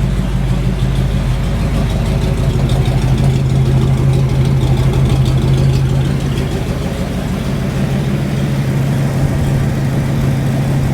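Freshly built rat rod engine running at idle on its first start-up, steady and loud, swelling slightly a few seconds in; it is running for a first ignition-timing check and sounds healthy.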